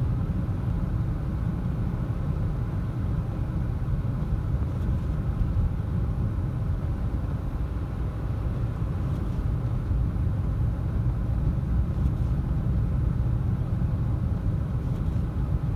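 Steady low road rumble heard inside a car's cabin: Michelin CrossClimate 2 tyres rolling on a snow-covered highway.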